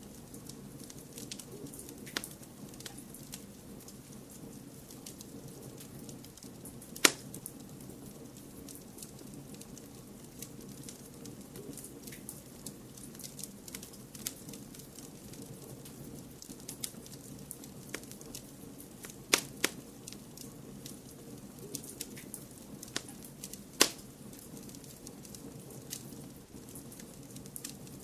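Wood fire crackling: a steady run of small clicks and snaps with a few sharp, louder pops, about a quarter of the way in and again twice in the last third. Under it lies an even low hiss-like rumble of blended white noise.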